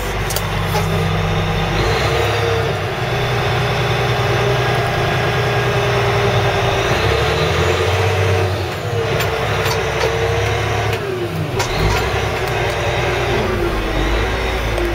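Caterpillar 980G wheel loader's diesel engine running while the machine is driven, with a steady whine that dips in pitch and recovers a few times from the middle on, as the engine speed changes.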